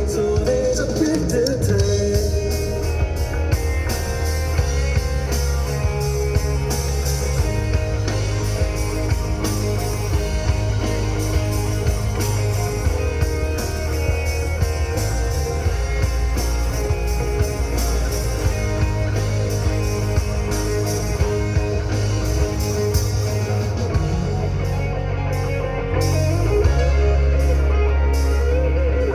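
Live rock band playing an instrumental passage with drum kit, bass guitar, electric guitars and keyboard; the band gets louder and heavier about three seconds before the end.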